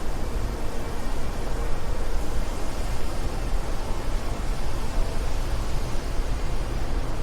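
Wind blowing steadily: a continuous rush of noise that is heaviest at the low end, rising and falling only slightly.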